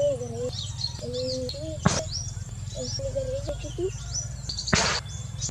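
Many small birds chirping and twittering in quick, overlapping high calls, with a lower wavering call beneath in the first half. A sharp click about two seconds in and a short rustling burst near the end.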